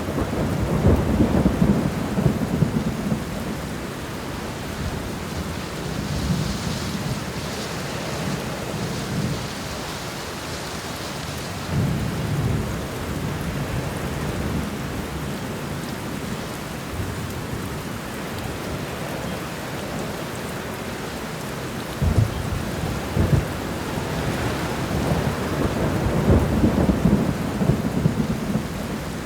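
Heavy rain falling steadily, with rolling thunder. The rumbles swell at the start and again about twelve seconds in; a sharper clap comes about twenty-two seconds in, leading into a long rumble near the end.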